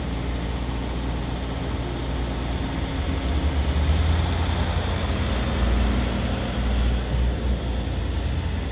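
A motor vehicle's low rumble under a steady broad rush of road and engine noise, swelling twice, about four and about six seconds in.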